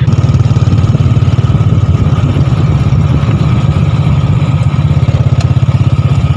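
Small motorcycle engine running steadily at close range, a fast, even low pulse, as the bike rides along.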